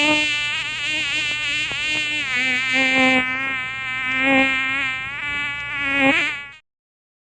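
Mosquito wingbeat whine, a loud buzzing drone whose pitch wavers up and down, cutting off about six and a half seconds in.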